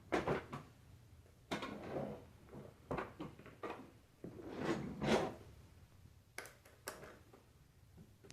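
Handling noises: a string of short scraping, rustling knocks, with two sharp clicks near the end. No vacuum motor is running.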